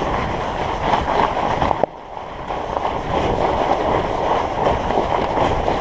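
Studded fat-bike tires rolling over icy, snow-covered trail, a steady grainy rolling noise that drops off briefly about two seconds in.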